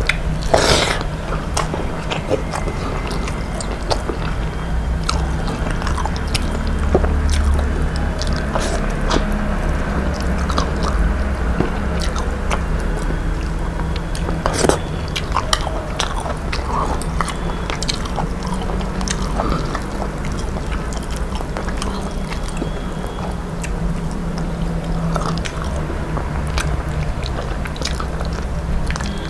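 A person eating: chewing and biting, with scattered short clicks, over a steady low hum.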